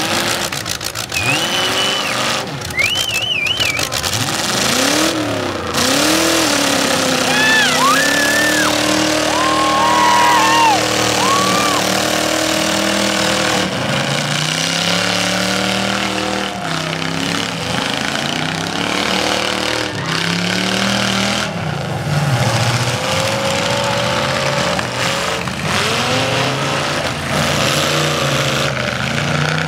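Several demolition derby cars' engines revving up and down as they drive and push, with repeated hard crashes of cars hitting each other.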